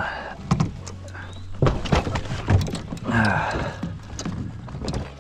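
Several knocks and thuds of gear against a kayak hull while the kayak is being got under way, with a few bits of talk in between.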